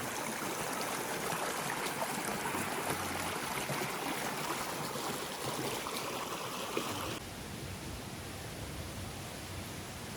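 Mountain stream rushing steadily, fed by the waterfall upstream. About seven seconds in, it drops suddenly to a quieter hiss.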